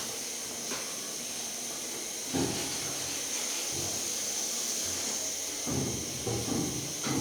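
Steady high hiss, with a few irregular rubbing sounds of a cloth wiping a toilet cistern from about two seconds in and again near the end.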